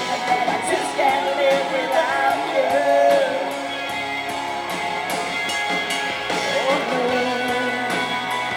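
A rock band playing live: guitars and drum kit under a wavering melodic lead line.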